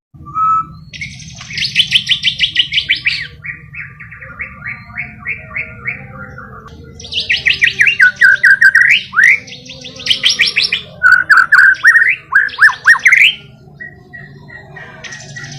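White-rumped shama (murai batu) singing: quick runs of rapid trilled notes, then loud whistled phrases sweeping up and down in pitch about halfway through. A faint steady low hum runs underneath.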